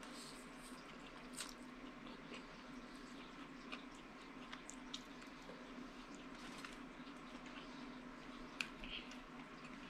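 Faint, wet chewing and lip-smacking of a person eating angel hair pasta and sausage with her fingers, with scattered small mouth clicks and one sharper smack near the end.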